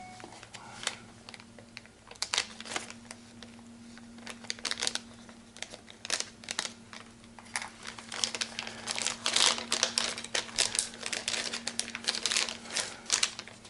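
Plastic parts bag crinkling and rustling as it is torn open and handled to take out a new synchro ring, in irregular crackles that grow busier near the end. A faint steady hum runs underneath.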